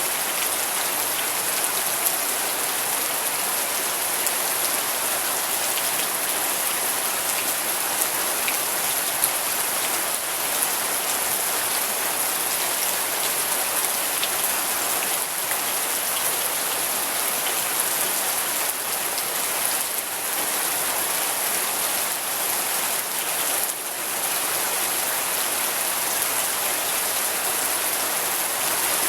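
Steady rain falling on a surface: a dense, even hiss with scattered individual drop taps.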